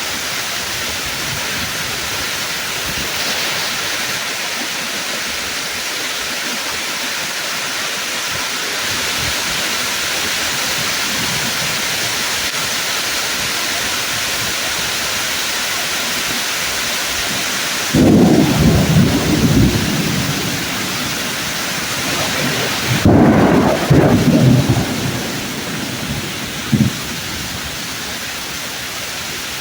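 Heavy rain falling on leafy woods as a steady hiss, broken by two thunderclaps: a sudden crack with a rumble a little past halfway, then a longer rumbling clap about five seconds later, followed shortly by one short sharp crack.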